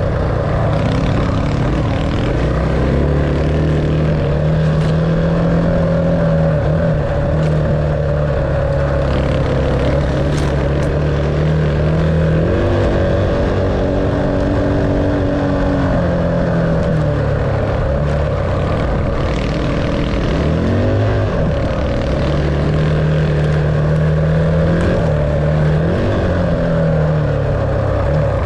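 Dirt bike engine running under way, its pitch stepping and sliding up and down with the throttle and gear changes through the whole stretch.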